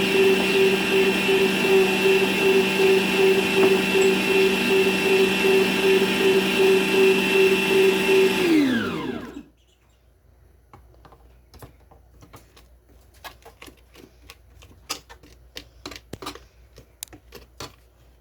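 Planetary stand mixer's motor running steadily with a pulsing hum, then switched off about eight and a half seconds in, its pitch falling as it spins down to a stop. Faint clicks and taps follow.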